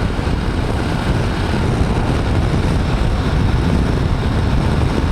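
Steady wind rush and road noise while riding a BMW G310GS motorcycle at speed, wind buffeting the microphone, with the engine buried in the rumble.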